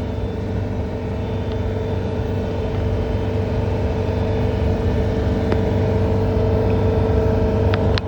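John Deere 317 skid steer running steadily under load with its snowblower attachment, heard from inside the cab: a constant low drone with a steady whine on top, growing slowly louder. A couple of faint clicks come near the end.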